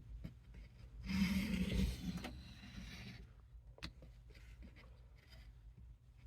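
Knife blade drawn across a sharpening stone in one scraping stroke lasting about a second, starting about a second in, with a couple of light clicks of steel on stone around it.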